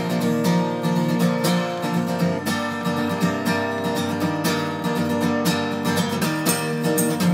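Background music: strummed acoustic guitar playing an instrumental passage, with no singing.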